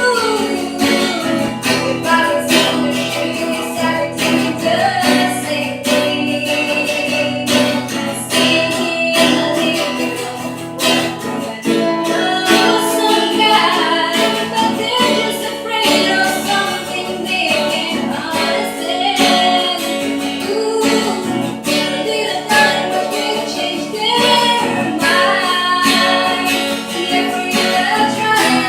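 Acoustic guitar strumming steadily under a woman's singing voice.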